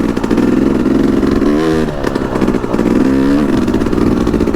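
Yamaha YZ250X two-stroke dirt bike engine running in first gear on a trail climb, its pitch rising and falling a few times with bursts of throttle.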